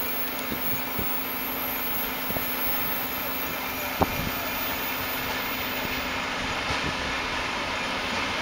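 Steady hum and rumble of an approaching electric-hauled freight train, with a few isolated clicks.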